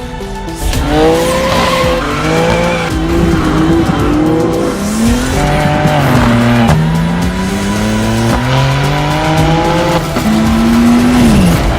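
BMW M4 G82's twin-turbo straight-six through an Akrapovic exhaust, accelerating hard: the engine note climbs and drops at each gear change, several times over, with a falling note near the end.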